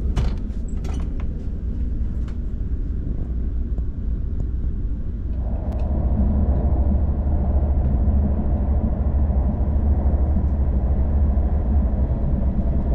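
Running noise of an SRT high-speed train heard inside the passenger cabin at speed: a steady low rumble that grows louder and fuller about five seconds in.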